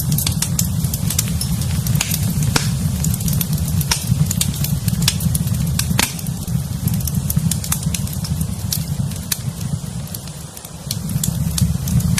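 Wood fire in a fireplace crackling, with frequent sharp pops and snaps over a steady low rumble of the flames. The rumble drops away briefly near the end, then returns.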